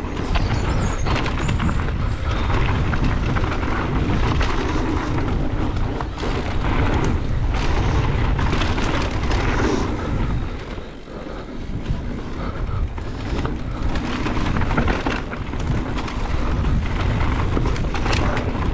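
Heavy wind buffeting the microphone as an Orbea Wild electric mountain bike rides a fast trail, with tyre noise and frequent knocks and rattles from the bike over the ground. The buffeting eases briefly about ten seconds in.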